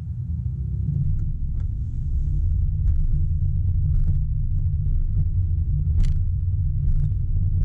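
Steady low rumble of road and wind noise from a moving car, picked up by a GoPro on the vehicle, growing louder over the first second. Scattered light ticks and knocks, with a sharper one about six seconds in.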